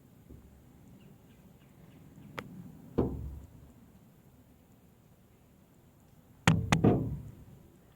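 Sharp knocks: a faint click, then a single loud one about three seconds in and a quick run of three near the end, each trailing off with a short ring.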